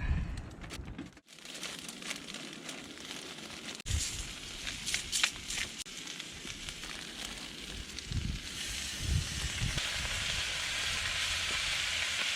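Food sizzling on a grill over a campfire, with scattered crackles. About eight seconds in the sizzle becomes a steady, louder hiss.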